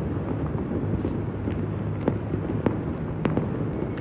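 Distant fireworks going off across a city: several sharp bangs, roughly one every half second, over a steady low rumble.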